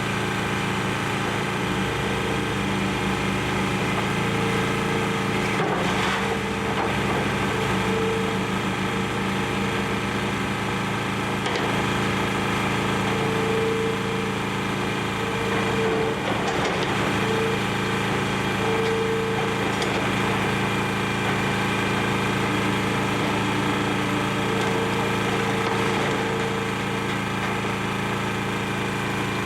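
Excavator's diesel engine running steadily while demolishing a building, with a few sharp cracks and crunches of breaking material scattered through it.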